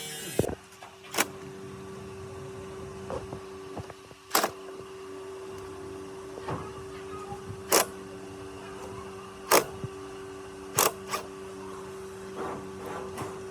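A small electric motor humming steadily, with sharp metallic clicks or knocks every second or two.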